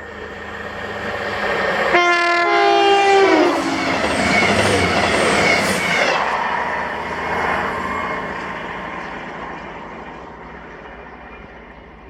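Virgin express passenger train passing at speed. Its horn sounds about two seconds in for over a second, falling in pitch as it goes by. The rush of the train is loudest for a few seconds, then fades away.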